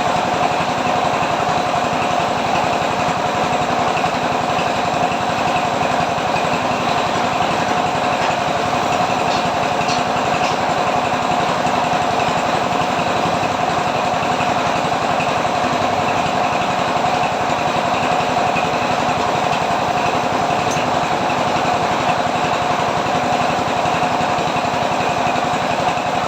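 A motor running steadily with a fast, even pulsing and a constant mid-pitched hum, unchanged throughout.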